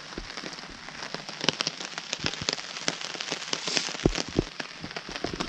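Rain falling on a camping tarp overhead: a steady hiss with many irregular drops ticking on the taut fabric.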